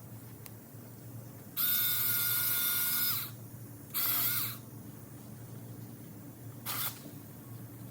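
Cordless mini electric chainsaw motor whining at high pitch in two runs, first about a second and a half, then a short half-second blip, the pitch dropping each time it is let off. A short noisy burst follows near the end.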